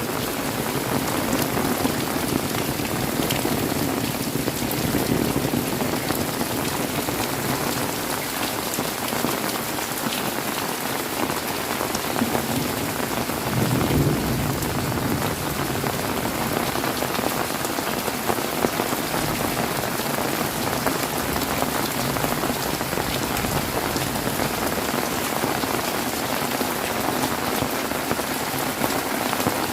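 Heavy rain falling steadily in a dense, even downpour, with a brief low swell about halfway through.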